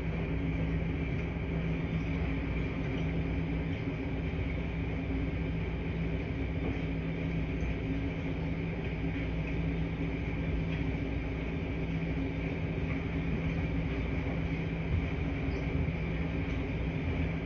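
Steady hum and rumble of running washing machines in a laundry room, with a constant low motor tone and a faint tick about fifteen seconds in.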